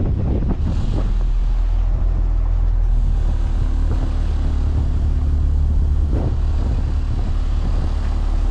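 Trawler's engine running with a steady low rumble, with wind buffeting the microphone.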